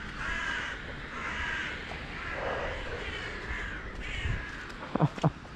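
Crow cawing, a run of about five caws each lasting under a second. Two sharp knocks come near the end.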